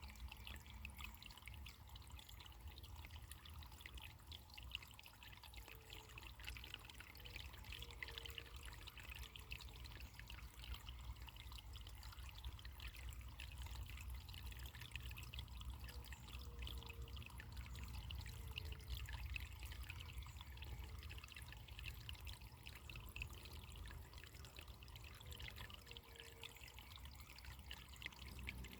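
Running water trickling and babbling steadily, faint and even, with no pauses.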